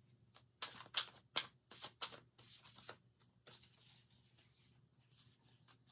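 Tarot cards being handled: a quick run of papery flicks and slaps for a couple of seconds, then fainter rustling.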